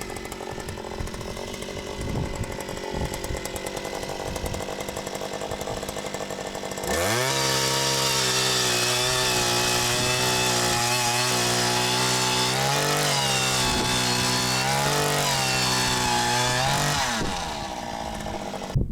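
Two-stroke gas ice auger running low, then held at full throttle for about ten seconds while drilling a hole through the ice, with slight dips under load, before dropping back to idle.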